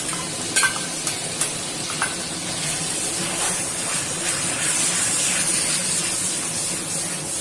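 Curd mixed with green chillies sizzling and frying in hot oil and onion masala in a metal kadai, stirred with a spatula that scrapes the pan. A few sharp metal taps on the pan in the first two seconds.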